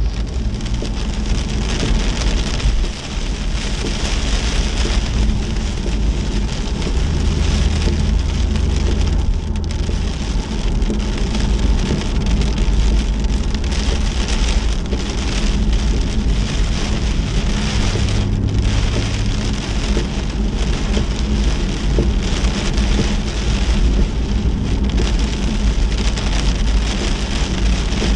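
Steady rain, with a vehicle's low rumble running underneath.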